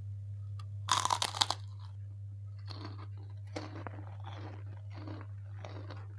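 A loud, crisp crunch as a kerupuk (puffed Indonesian cracker) is bitten off about a second in, then steady crunchy chewing at about two chews a second.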